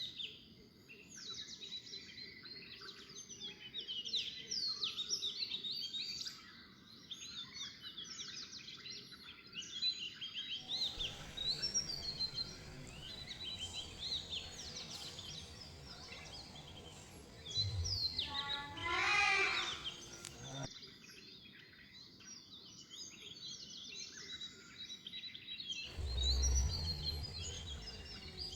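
Birdsong: many small birds chirping and twittering in short, quick rising and falling calls over a steady background hiss. A louder, fuller call stands out about two-thirds of the way through.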